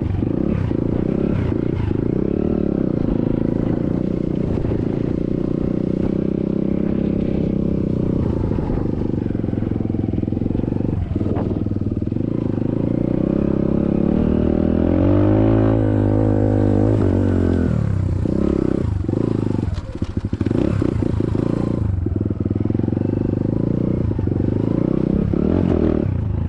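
SSR 150cc dirt bike's single-cylinder engine running under way. The revs climb and fall about halfway through, then dip briefly several times.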